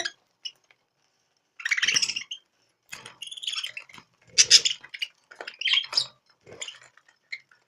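Small pet birds chirping in short, irregular bursts, starting about a second and a half in.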